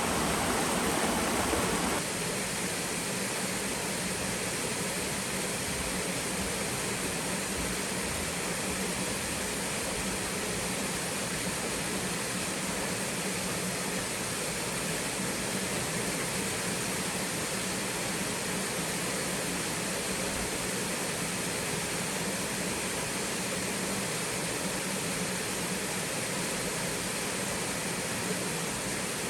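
Steady rushing and splashing of a small waterfall spilling into a mountain stream. About two seconds in, the sound drops slightly in level and loses some of its fullness, then runs on evenly.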